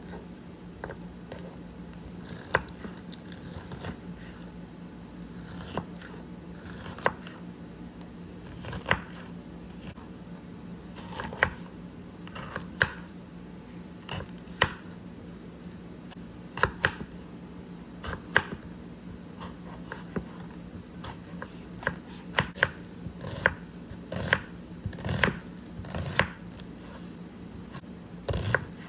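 Irregular short clicks, scrapes and crinkles of food and utensils being handled close to the microphone, coming faster toward the end, over a steady low hum.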